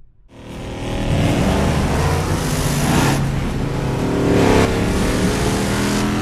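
A large vehicle engine running hard and revving in surges, peaking about three seconds in and again about four and a half seconds in.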